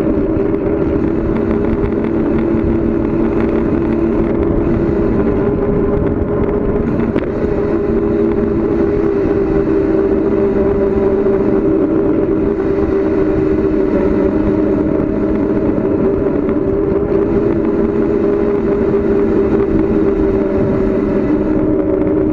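Steady rush of wind and road noise from a bicycle coasting fast downhill on pavement, with a low rumble and an even hum underneath.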